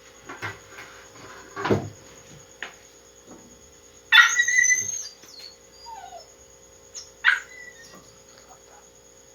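A dog yelping: a loud, high cry lasting about a second about four seconds in, and a short one about three seconds later. A knock sounds near the start.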